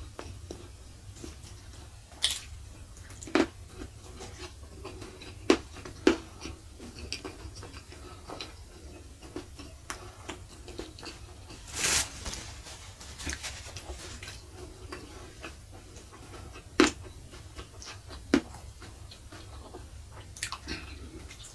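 Close-miked chewing and wet mouth smacks of a person eating by hand, with scattered sharp clicks every second or few and one longer noisy smack about twelve seconds in. A low steady hum runs underneath.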